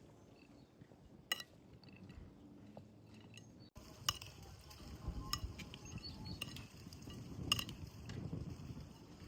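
A few scattered light clinks and taps of kitchen dishes and utensils being handled, over a quiet background; the loudest tap falls about seven and a half seconds in.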